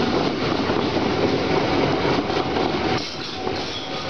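Passenger train coaches rolling past close by: a steady noise of wheels and running gear on the rails, with a faint steady high tone underneath.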